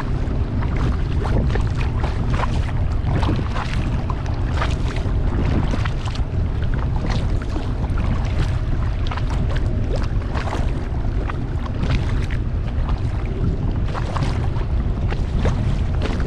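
Water splashing and lapping against a kayak and its paddle in many short irregular splashes, over a steady low rumble of wind on the microphone.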